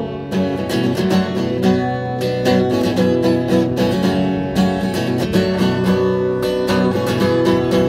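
Instrumental break in a song, with no singing: a strummed acoustic guitar plays steady, evenly spaced chord strokes over sustained notes.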